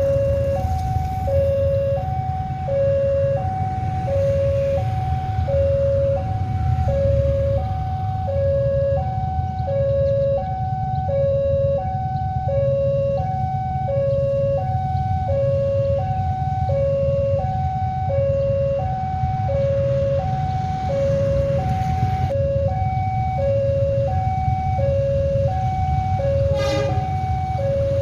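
Railway level-crossing warning alarm sounding continuously, two tones alternating high-low about once a second, signalling that a train is approaching and the barrier is down. A steady low rumble runs beneath it, and a short sharp horn-like beep sounds near the end.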